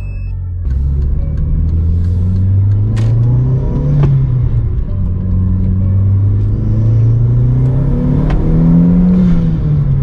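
Audi TT 225 quattro's turbocharged 1.8-litre four-cylinder engine pulling hard under acceleration, heard from inside the cabin. Its pitch climbs, drops back at each gear change and climbs again two or three times. The car is running smoothly on its test drive after a front-mount intercooler install.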